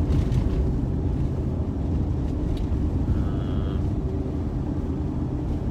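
Steady engine and road drone inside the cabin of a 2005 Chevrolet Suburban Z71 driving at about 40 mph while towing a trailer.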